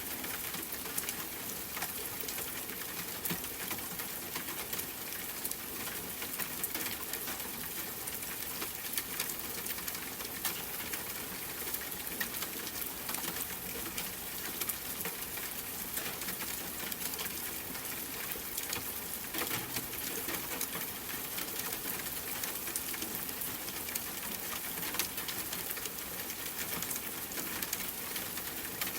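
Steady rain pattering against a window, with a dense scatter of individual drop ticks over a constant hiss.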